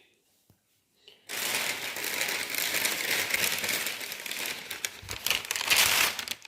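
A shopping bag crinkling and rustling as groceries are handled and unpacked. It starts suddenly after about a second of near silence.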